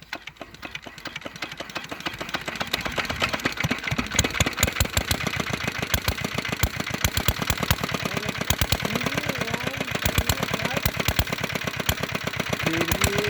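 5 hp Comet single-cylinder diesel engine starting up. Its firing beats quicken and grow louder over the first few seconds, then settle into a steady, even run.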